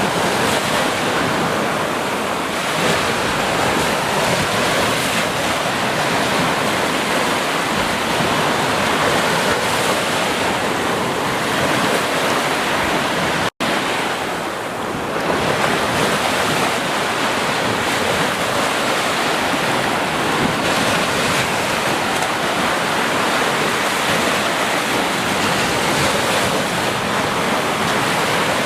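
Ocean surf: a steady rush of waves breaking and washing, swelling and easing gently, with a split-second dropout to silence about halfway through.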